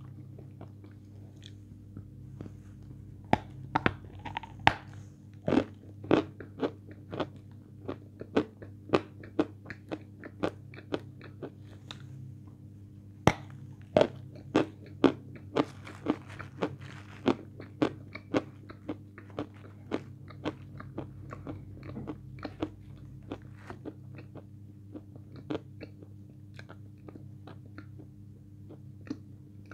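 Biting and chewing a piece of meringue: crisp crunches about one or two a second, loudest near the middle and thinning out toward the end. The meringue seems slightly moist to her, perhaps not fully dried.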